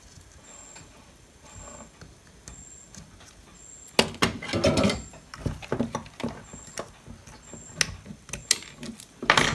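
Short faint high beeps repeating a little under once a second, then from about four seconds in a run of sharp clicks, taps and knocks of tools and parts handled on an electronics bench while an optocoupler is taken off an old computer power supply board.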